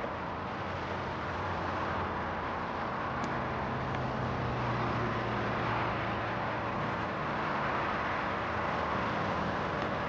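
Steady car and road traffic noise, with a low engine-like hum in the middle seconds.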